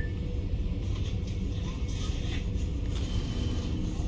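Steady low rumble inside a passenger train carriage as the train pulls slowly away.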